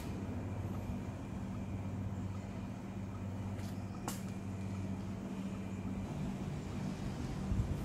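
Car engine idling, a steady low hum, with a sharp click about four seconds in.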